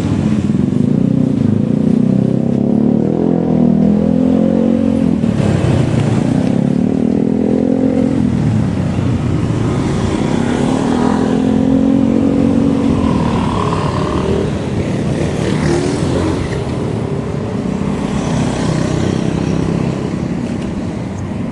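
Motor vehicle engine noise on the road, its pitch rising and falling in several swells as engines speed up and ease off, over steady road and wind noise.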